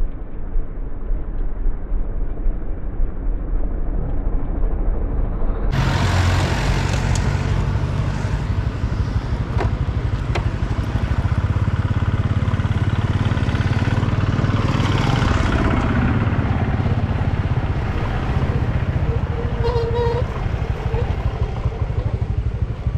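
A motor vehicle's engine running steadily, with wind rushing over the microphone. The sound jumps suddenly louder and fuller about six seconds in.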